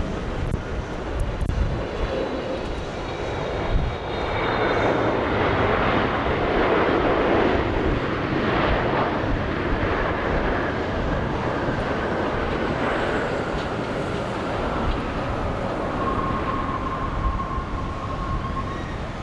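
Jet airliner's engines passing by: a rushing roar that swells about four seconds in, peaks and slowly fades, with a whine that falls in pitch as it goes past. Wind rumbles on the microphone underneath.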